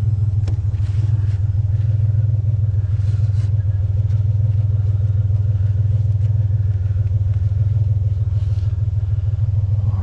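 A vehicle engine idling with a steady low rumble, with a few faint rattles over it.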